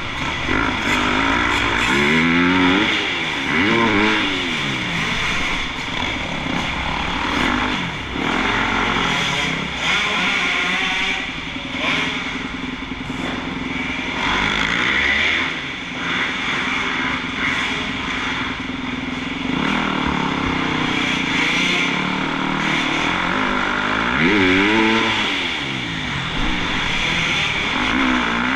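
Motocross bike engines revving hard and falling back over and over, the pitch rising and dropping every second or two as the throttle is opened and shut.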